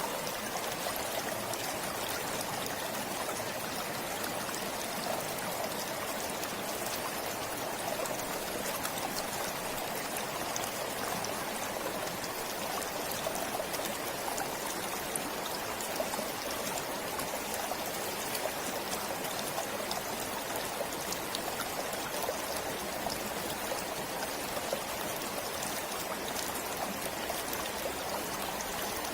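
A stream flowing steadily, with continuous trickling and splashing water.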